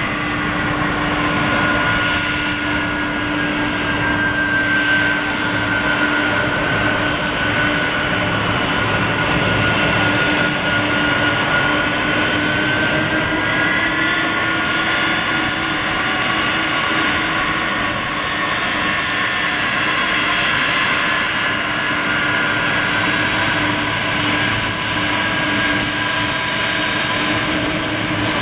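Boeing 747-400 freighter's jet engines running steadily, a loud continuous rush with a whine that drifts slowly up and down in pitch.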